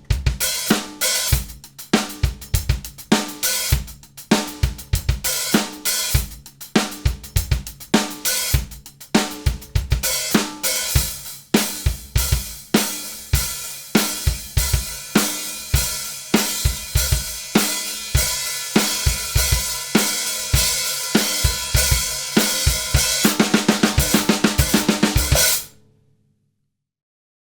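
Drum kit groove played with wooden sticks, led by a 14-inch Paiste Sound Formula Medium Heavy hi-hat (B15 bronze) with bass drum and snare under it. Near the end a run of rapid strokes, then the playing stops abruptly.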